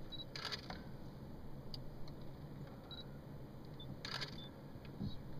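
Camera shutter firing twice, about half a second in and again about four seconds in. Short high beeps come just before, like autofocus confirmation, over a low steady hum.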